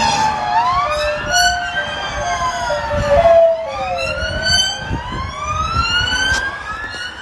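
Emergency vehicle sirens wailing, their pitch sweeping slowly up and down, with two sirens overlapping and crossing in pitch over a low traffic rumble.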